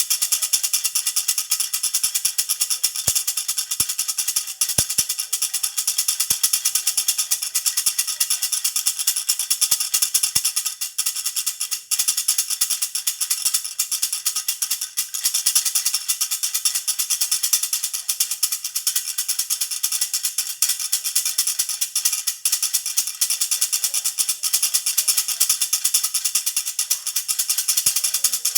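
A jhunjhuna baby rattle shaken continuously in a fast, even rhythm, its small metal bells jingling brightly.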